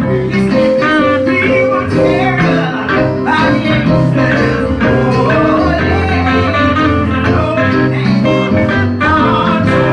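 Live gospel church music led by electric guitar, with bass and other band instruments, and possibly some singing.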